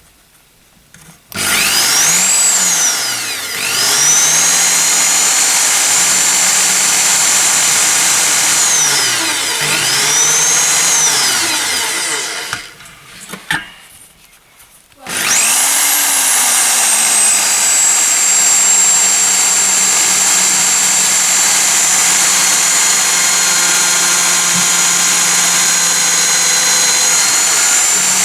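Small electric drill running at high speed, drilling out the rivets that hold a diecast toy's base. Its whine rises and dips in pitch as it bites and speeds up again. It stops briefly around the middle, then starts again and runs steadily.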